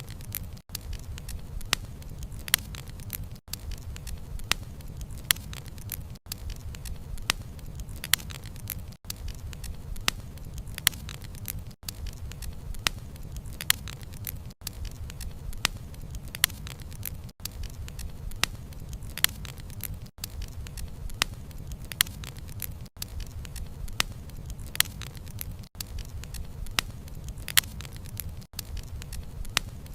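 Wood fire burning, with dense crackling and sharp pops of the logs over a steady low rumble of the flames. There is a brief dropout about every three seconds.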